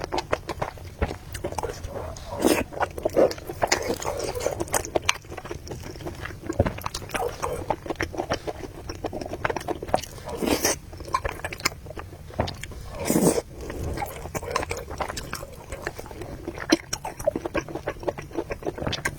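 Close-miked eating sounds: a person chewing and biting noodles and meatballs, with many wet mouth clicks and smacks and a few longer, louder sounds about ten and thirteen seconds in.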